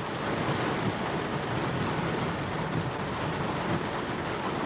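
Heavy monsoon rain falling on a car, heard from inside the cabin as a steady rushing noise.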